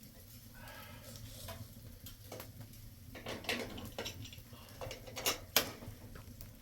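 A series of light knocks and clinks over a low steady hum, irregular, growing more frequent after about two seconds, with the loudest pair about five and a half seconds in.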